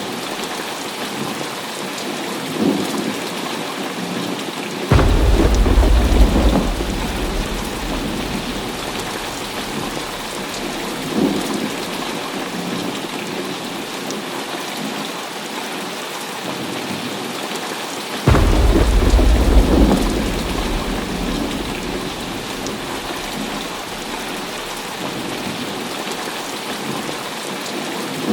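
Heavy rain falling steadily, with two sudden claps of thunder about five and eighteen seconds in. Each clap rolls into a deep rumble that fades over a few seconds, and fainter rumbles come in between.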